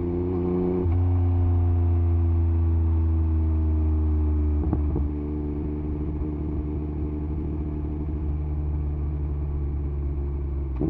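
2021 Yamaha MT-09 SP's inline three-cylinder engine through an Akrapovič exhaust with the dB killer removed, running with its note slowly falling. About five seconds in the note breaks and settles lower and a little quieter.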